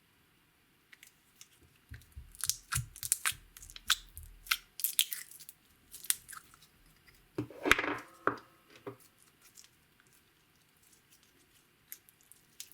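Clear slime being worked by hand, with a run of sticky crackling pops and clicks and then a louder squelch with a brief squeak about two-thirds of the way through.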